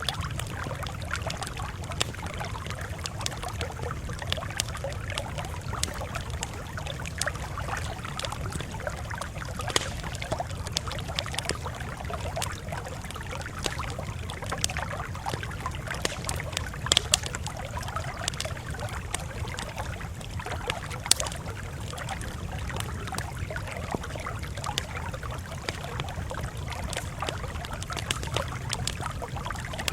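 Campfire crackling steadily, with many small snaps and a few louder pops now and then, over a steady low rumble.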